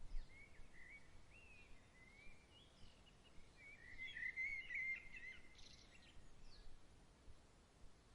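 Faint birdsong: a songbird warbling in quick, looping whistled phrases, busiest and loudest about halfway through, over a soft steady outdoor hiss. A brief low thump right at the start.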